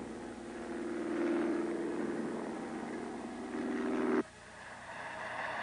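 Car engine running hard at speed, a steady engine tone over road and wind noise, cutting off suddenly about four seconds in and followed by a quieter hum.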